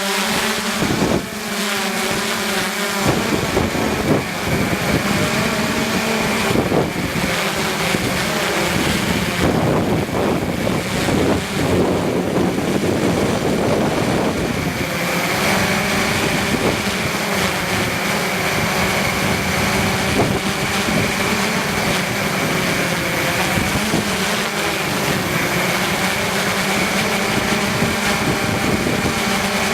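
A multirotor camera drone's electric motors and propellers running steadily in flight, giving an even pitched hum with a high whine. Wind buffets the microphone in gusts from about 3 s to 15 s in.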